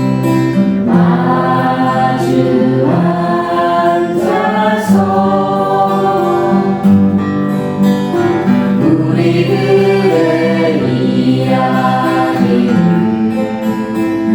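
A song sung to acoustic guitar accompaniment: a singing voice over steady strummed or plucked guitar chords.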